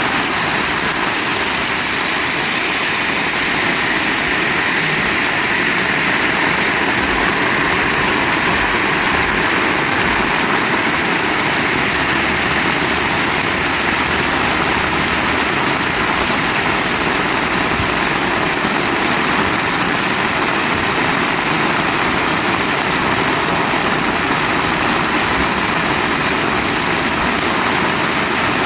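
Heavy rain falling steadily: a dense, even hiss that holds at the same level throughout.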